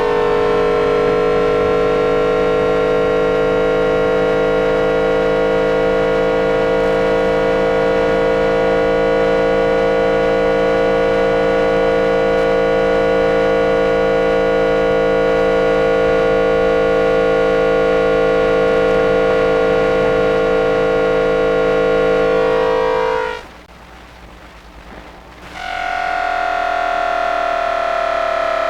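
Toyo 2-level GTO-VVVF inverter driving the traction motors of a Tokyu 1000 series train, picked up electrically by an induction coil: a loud electronic PWM whine with many overtones, holding a steady pitch that drifts slowly lower. It cuts out about 23 seconds in, and after about two seconds a higher whine returns and falls in pitch.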